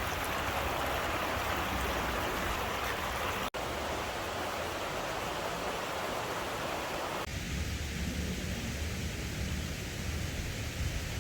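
River water rushing steadily, with a brief dropout about three and a half seconds in. A little past seven seconds the sound changes abruptly to a lower rumbling hiss.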